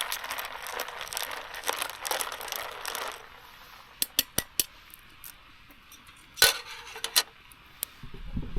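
About three seconds of rustling, then scattered light clinks and taps of camp cookware and utensils: a quick run of four, then a louder single clink and a few more.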